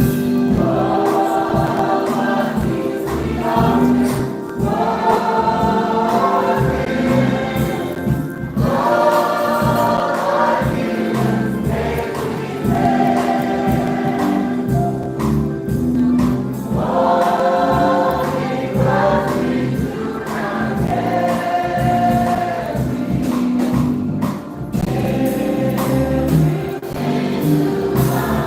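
Gospel choir singing a song over instrumental accompaniment, in long sung phrases.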